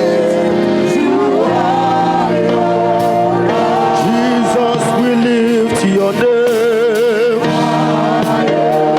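Gospel worship music: singing of long held notes, wavering with vibrato in places, over sustained instrumental accompaniment.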